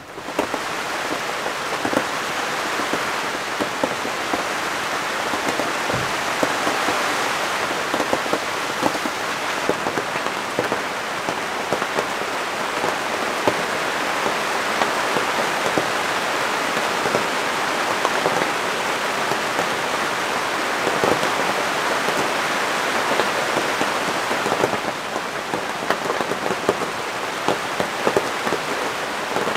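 Steady rain falling on a canvas tent, heard from inside: a dense patter of drops with many sharp individual taps, easing slightly near the end.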